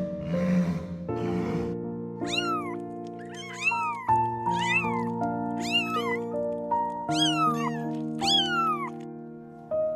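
Cat meowing repeatedly, about seven arched calls that rise and fall in pitch, after two short breathy bursts at the start, over background music.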